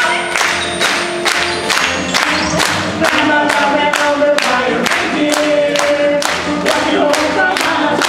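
Choir singing a song with accompaniment over a steady beat of about two to three sharp strokes a second.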